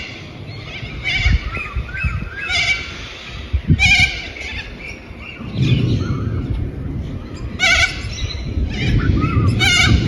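Short, harsh animal calls repeated about six times, a second or more apart, over a low rumbling noise that grows louder about halfway through.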